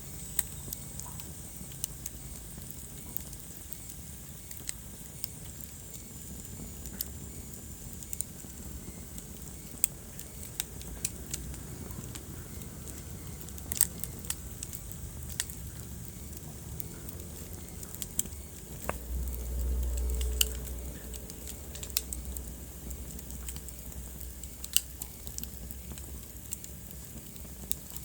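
Wood fire burning in a fireplace, with sharp crackles and pops at irregular moments over a steady low rumble. The low rumble swells for about two seconds a little past the middle.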